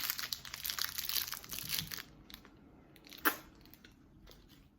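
Close-up crunching and biting of a candy, a dense crackle for about two seconds, then a single sharp click about three seconds in.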